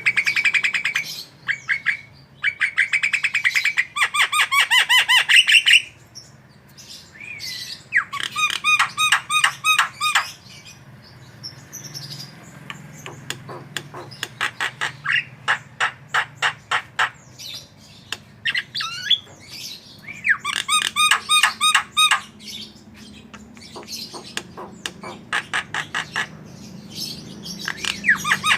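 Javan myna singing vigorously: bouts of rapid, harsh chattering and squawking notes, each a few seconds long, with short pauses between.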